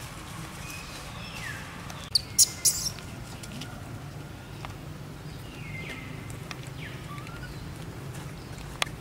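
Birds chirping now and then in short sweeping calls over a steady low hum, with a loud cluster of sharp crackles about two seconds in and a single sharp click near the end.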